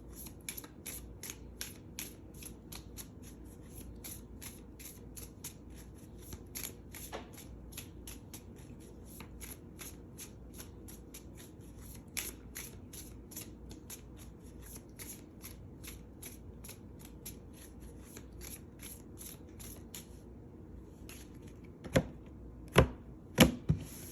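Tarot cards being shuffled by hand: a steady run of soft card flicks, about three a second. A few seconds before the end it stops, and three loud knocks follow.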